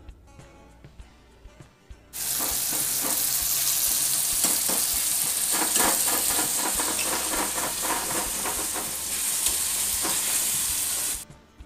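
Vegetables frying in hot oil in a kadai, sizzling loudly while a steel ladle stirs them with frequent scraping strokes against the pan. The sizzle starts abruptly about two seconds in and cuts off just before the end.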